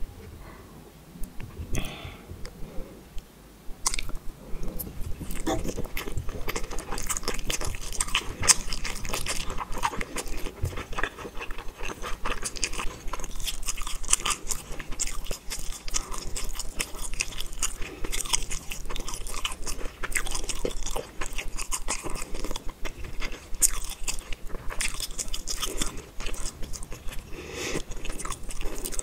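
Close-miked chewing of a fish ball coated in spicy tteokbokki sauce: a steady run of small mouth clicks and smacks that grows dense about four seconds in.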